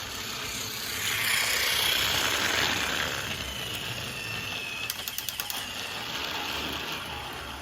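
Battery-powered toy train running, a steady rattly mechanical whir, with a quick run of clicks about five seconds in.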